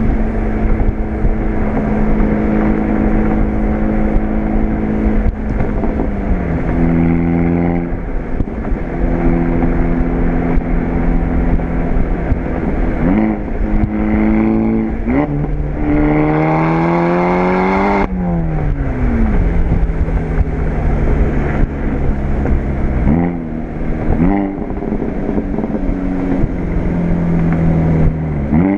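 Volkswagen GTI's turbocharged four-cylinder engine, fitted with an APR K04 turbo and APR turbo-back exhaust, running under way. It mostly holds steady revs with a few drops and short blips. Past the middle it revs up for about two and a half seconds, then falls away sharply.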